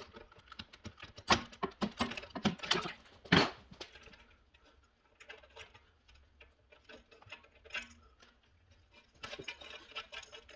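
Irregular clicks, knocks and light clinks, thick in the first few seconds, sparse in the middle and picking up again near the end, like small metal parts and tools being handled.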